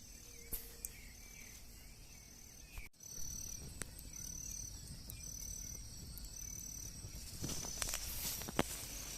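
Evening insect chorus, with crickets or similar insects chirping in high, steadily repeated pulses. The sound drops out briefly about three seconds in, and there are a few faint clicks and rustles near the end.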